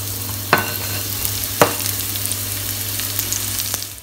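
Sliced lemongrass sizzling in hot cooking oil in a frying pan, a steady frying hiss. Two sharp knocks about half a second and a second and a half in.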